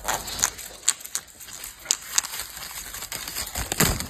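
A parrot tearing and crumpling paper with its beak: irregular crinkling with sharp snaps and crackles, the loudest near the end.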